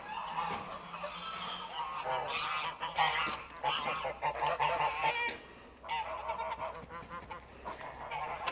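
Domestic poultry calling, many short calls in quick succession and overlapping.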